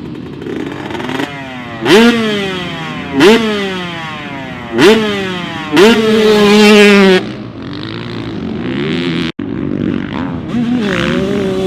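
Two-stroke motocross dirt bike engine revving hard in four sharp bursts, each a quick rise in pitch that then sinks away; the last is held high for about a second before it cuts off. After that, quieter dirt bike engine sound continues at lower revs.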